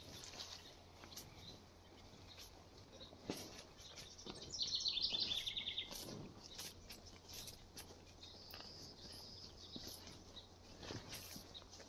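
Songbirds calling: a rapid high trilled song about four seconds in, the loudest sound, and a thin high whistle later on. Beneath them are faint scattered rips and rustles of cattle cropping grass.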